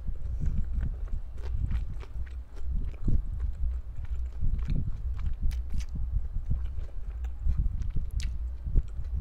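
Close-miked chewing of a mouthful of barbecued pork skewer with the mouth closed: soft low thuds about two a second, with small clicks scattered through.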